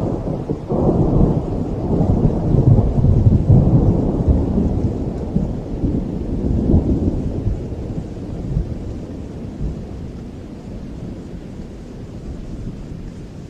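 Rolling thunder over steady rain: a low rumble swells about a second in, rolls on for several seconds, then slowly dies away, leaving the rain.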